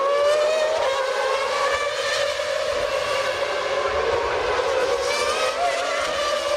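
Formula One race car engine running at high revs, its high pitch holding fairly steady with small dips and rises.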